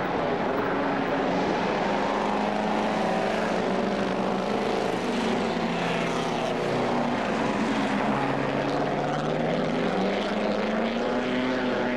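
Engines of pre-war racing cars running hard at speed, several overlapping at once, their pitch rising and falling as they accelerate and change gear.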